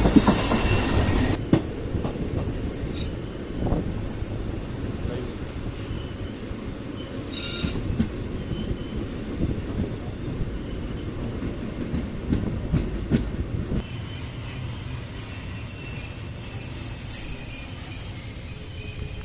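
Train running on the rails: a steady low rumble with scattered clicks, and a thin, high wheel squeal that comes and goes and is strongest over the last five seconds. A loud rush of noise fills the first second and a half and cuts off suddenly.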